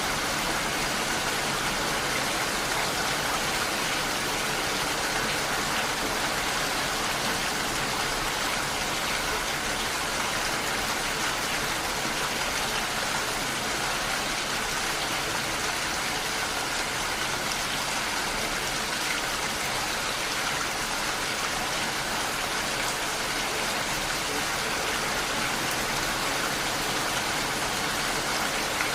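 Heavy rain falling steadily, an even hiss of rain with no breaks or changes.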